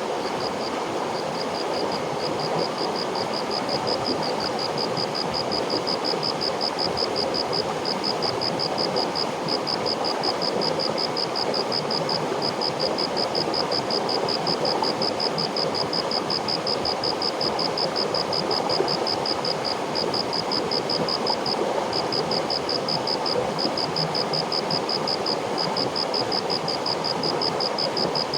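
River water flowing steadily. A high, rapid pulsing chirp, about six pulses a second, runs over it with a few short breaks.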